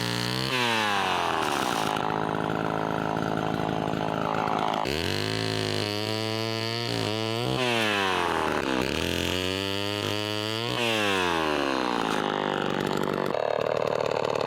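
Chainsaw cutting firewood, its engine revving up and dropping back several times as it goes into and comes out of the cuts.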